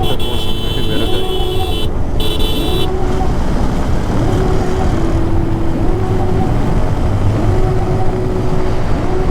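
Motorcycle riding along a highway, with steady wind and road noise on the microphone. Over it, a tone repeatedly rises and holds, about once a second, and a high steady tone runs through the first three seconds.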